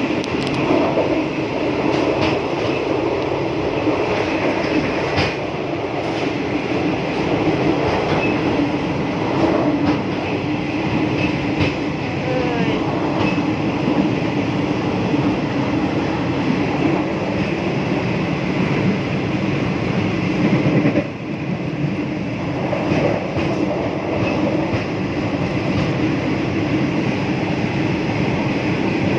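Passenger train carriage interior while the train is under way: a steady rumble and rattle of the wheels on the track, with some faint knocks, dipping briefly about two-thirds of the way through.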